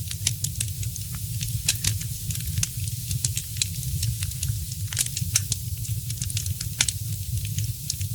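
Fireplace fire crackling, with frequent irregular sharp pops and snaps, a few louder than the rest, over a steady low rumble of the flames.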